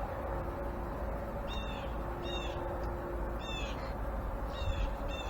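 A small bird chirping: short, high, falling notes, about five of them at uneven gaps, over a steady low hum.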